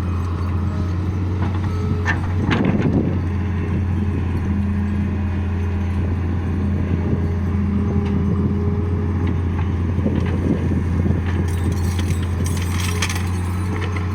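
Heavy diesel engine of a Doosan wheeled excavator running steadily with a deep hum, with a few knocks and rattles about two seconds in and again near the end.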